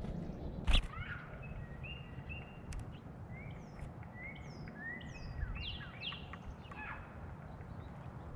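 Small songbirds at a feeder chirping and calling in a quick series of short notes, some sweeping up or down in pitch, over low steady background noise. A single sharp knock comes just under a second in.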